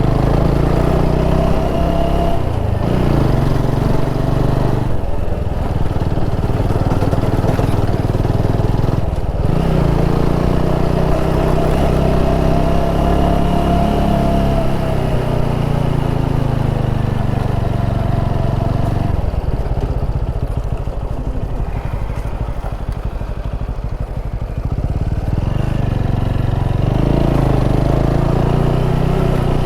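Motorcycle engine running as it is ridden along a road, easing off about twenty seconds in and picking up again near the end.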